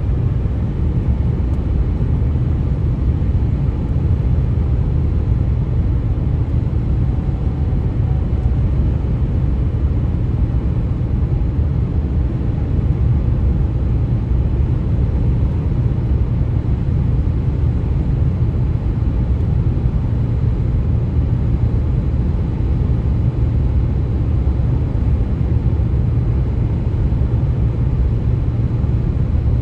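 Steady low rumble of highway road noise: tyres and vehicles on the pavement, even throughout with no distinct events.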